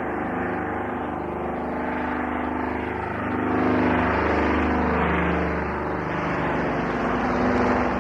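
Twin-engined de Havilland Canada Caribou transport aircraft with its engines running, a steady drone that grows louder about halfway through as it gets ready to take off.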